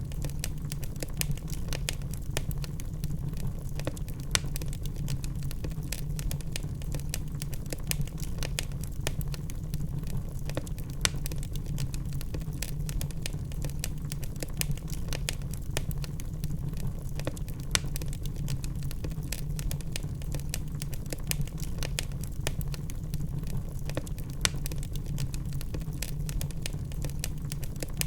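Log fire crackling: irregular sharp snaps and pops over a steady low rumble of the burning wood, with a few louder pops now and then.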